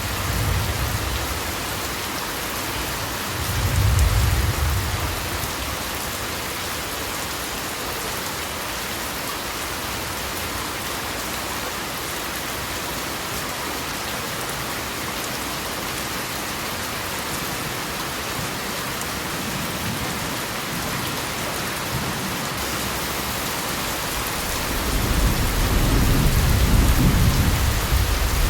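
Steady heavy rain hissing, with low rolling thunder: a short rumble at the start, another about four seconds in, and a longer, louder one near the end.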